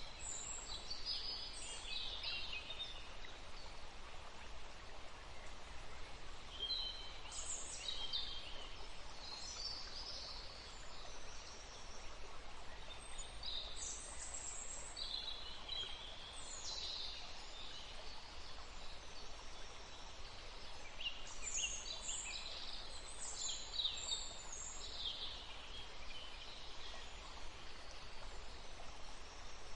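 Woodland stream running steadily, with small birds calling over it in short, scattered bursts of high chirps.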